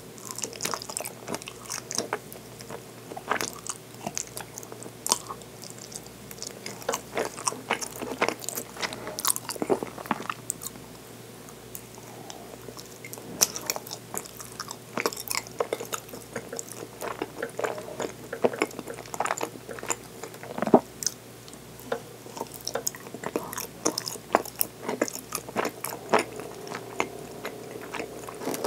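Chewing soft mitarashi dango: wet mouth sounds with many short, irregular clicks.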